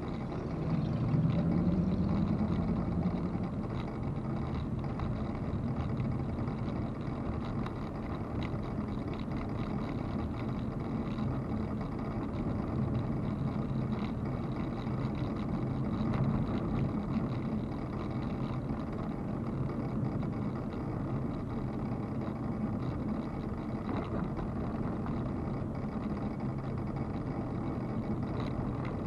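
Car driving with steady engine and road noise; about a second in, the engine note rises as the car accelerates.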